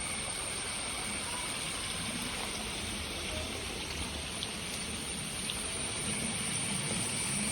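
Steady rush of flowing water, like a stream, with a constant high thin whine over it.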